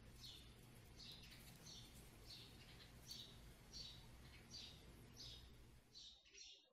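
Faint chirps of a small bird, repeated evenly about three every two seconds, over a low steady hum that drops away near the end.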